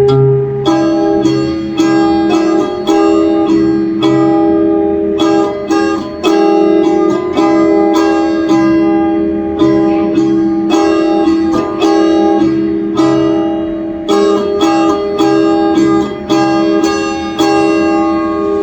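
Instrumental music on a plucked string instrument: a steady run of plucked notes over a held drone note, getting slightly quieter toward the end.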